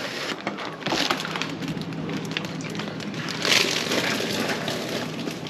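Dense crackling and clicking, like things being handled, that grows louder about a second in and again past the middle.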